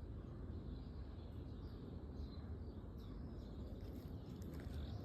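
Birds chirping faintly over a steady low rumble of outdoor background noise.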